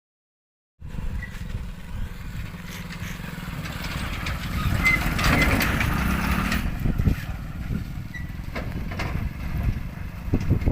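A motor vehicle running with a low, steady rumble and scattered knocks and rattles, starting abruptly about a second in.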